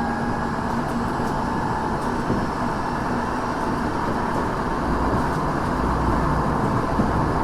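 Interior running noise of a Tokyo Metro 6000 series electric train (Mitsubishi IGBT-VVVF) moving at speed: a steady rumble of wheels on rail and car body. A faint steady whine fades out in the first couple of seconds, and the low rumble grows a little heavier later on.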